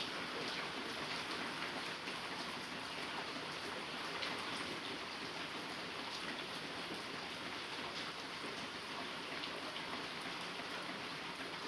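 Heavy rain falling steadily, a continuous hiss with faint ticks of individual drops.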